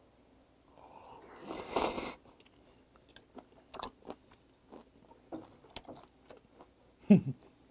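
Close-miked eating of raw olive flounder sashimi soaked in sauce: a loud slurp as the piece goes into the mouth about two seconds in, then wet chewing with many small clicks, and a short falling hum near the end.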